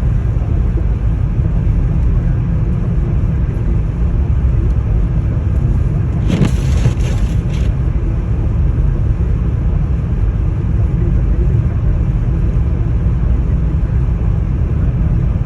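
Steady low rumble of storm wind buffeting the microphone, with a brief brighter hiss about six seconds in.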